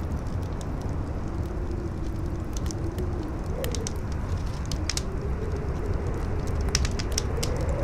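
Campfire crackling with irregular sharp pops, over a low wind rumble and a howling wind tone that wavers in pitch and rises near the end.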